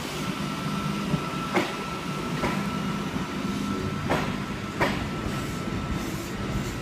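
Sydney Trains V-set double-deck electric train departing slowly, its running noise carrying a steady high hum, with four sharp clacks as its wheels pass over the rails.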